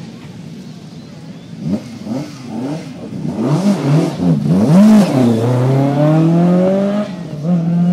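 Rally car engine revving: the throttle is blipped several times, with the revs jumping up and dropping, then the revs climb steadily for about two seconds.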